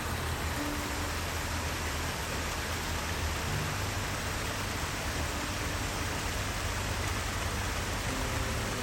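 Steady rushing hiss of running creek water.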